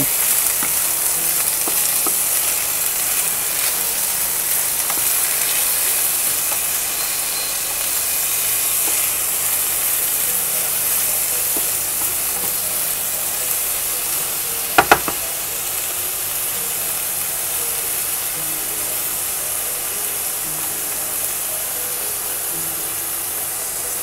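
Shrimp, chicken and vegetables sizzling steadily in a hot non-stick frying pan while being stirred with a wooden spatula. Halfway through come two sharp knocks close together.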